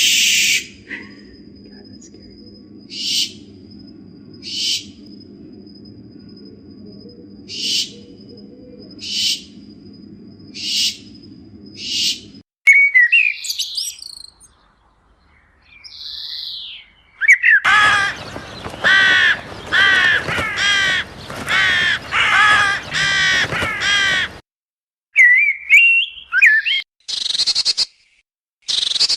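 Wild birds calling and singing in several spliced recordings. First comes a run of short harsh calls, repeated about every second and a half over a low steady hum. After a brief break, other short calls follow. From about the middle comes a fast song of rapidly repeated sweeping notes lasting several seconds, and near the end a few short calls.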